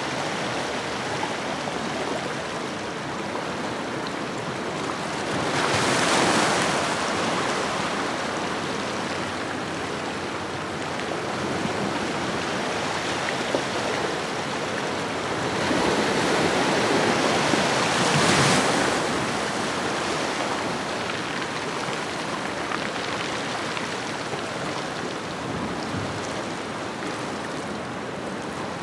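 Ocean waves washing onto a shore: a steady rush of surf with two larger waves swelling and breaking, about six seconds in and again from about sixteen to nineteen seconds, then falling back.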